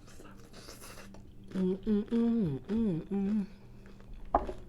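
A woman humming a short tune of about five held notes, her voice rising and dipping between notes, followed by one sharp crunch near the end, typical of biting into a crisp taco shell.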